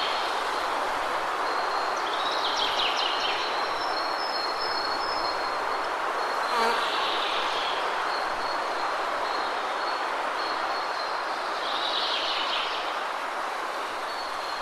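Waterfall rushing steadily, with a thin, steady high-pitched tone above it and a few brief bird chirps about two seconds in, halfway through and near the end.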